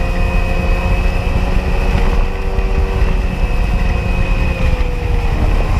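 Sea-Doo XP jet ski's two-stroke engine running at a steady cruise, its tone easing slightly lower near the end, over a heavy rush of wind and water.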